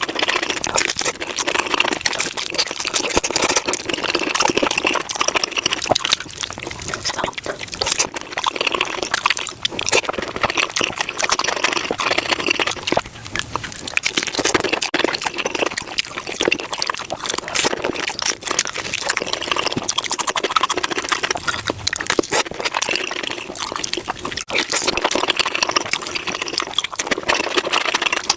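Close-miked chewing and crunching of tacos, sped up five times, so the bites and mouth sounds run together into a dense, unbroken stream of clicks and crackles.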